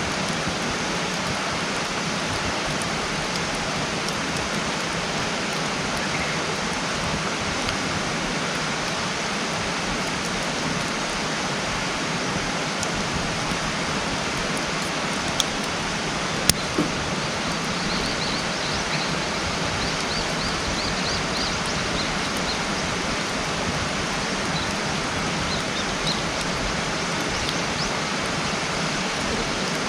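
Wood campfire burning with a steady hiss and a few sharp pops about halfway through.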